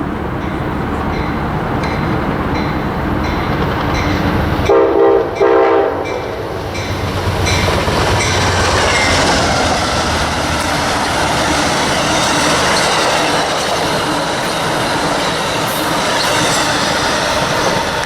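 Amtrak passenger train with P42DC diesel locomotives: two short horn blasts about five seconds in, then loud wheel-on-rail clatter and squeal as the cars roll by.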